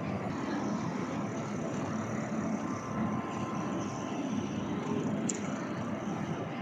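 Steady rumbling din of a busy railway station, with no single sound standing out.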